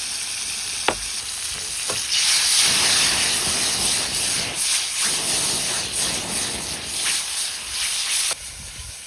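Food sizzling in a hot frying pan. There are two light clicks in the first two seconds, the sizzle swells about two seconds in, and it drops off sharply near the end.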